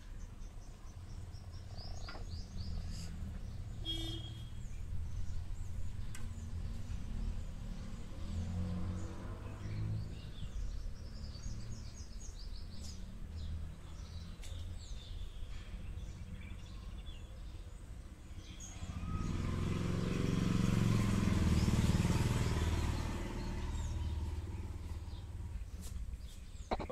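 Birds chirping over a steady low background rumble, with a louder stretch of noise about two-thirds of the way through that swells up and then fades.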